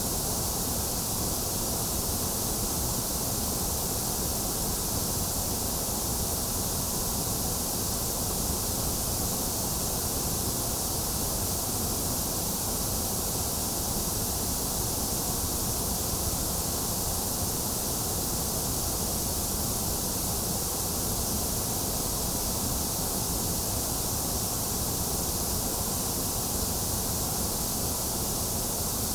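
Steady white noise: an even, unchanging hiss, bright in the treble with a low rumble beneath.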